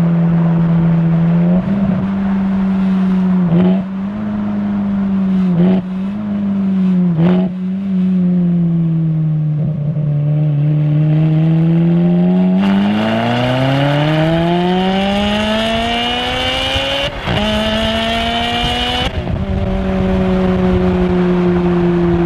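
Ferrari V8 engine on the road: cruising steadily with a few brief dips in pitch, then, about halfway through, a hard acceleration with the pitch rising steadily and a harsher, louder edge. A quick shift comes near the end, and then the car eases back to a steady cruise.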